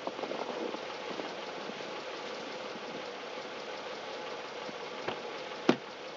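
Car engine idling steadily, with crunching steps in packed snow during the first second and a sharp knock near the end.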